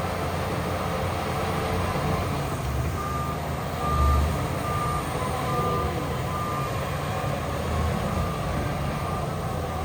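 Heavy diesel machinery running with a steady low rumble, while a reversing alarm beeps about every 0.6 s for several seconds from about three seconds in; the engine surges louder briefly around four seconds.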